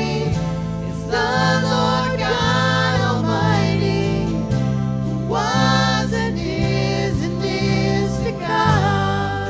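Christian worship song with singing: sung phrases that rise and fall with short breaks between them, over sustained accompaniment and a steady bass line.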